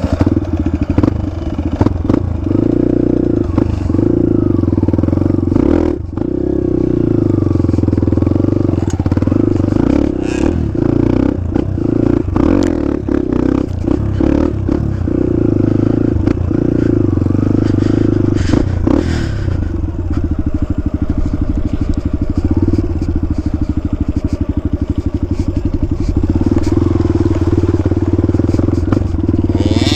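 Dirt bike engine running hard and steadily as the bike is ridden, its pitch shifting a little with the throttle, with frequent knocks and rattles over it.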